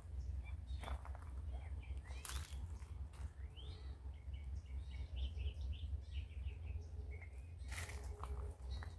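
Small birds chirping, with a run of short chirps through the middle, over a steady low rumble and a few brief clicks.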